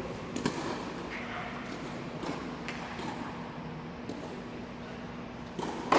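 A few scattered light taps on a tennis court, with one sharp tap about half a second in, over a faint steady hum.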